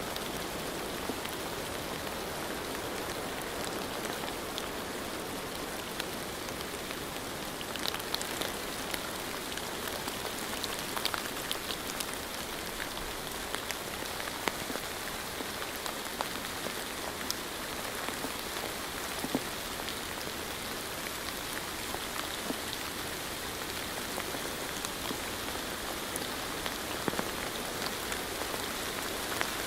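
Steady rain, an even hiss with scattered sharp ticks of single drops striking a surface.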